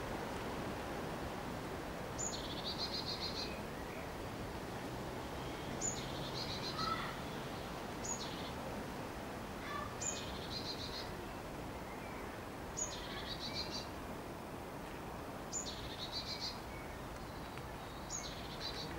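A small songbird repeating one short song seven times, about every two to three seconds: a high thin note dropping straight into a quick trill. Fainter chirps from another bird come in now and then over a steady outdoor hiss.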